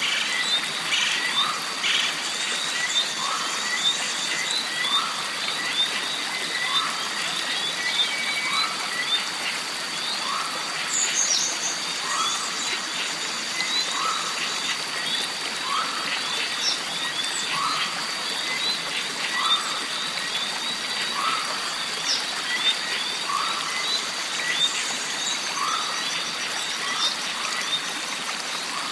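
Jungle stream ambience: running water under a steady high drone of insects. A short animal call repeats about every two seconds, with many small chirps and an occasional higher call over it.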